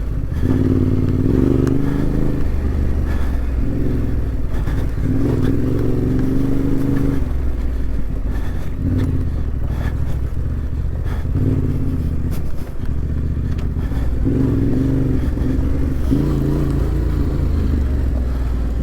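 Adventure motorcycle engine under on-off throttle on a rough off-road track, revving up in repeated bursts and dropping back between them.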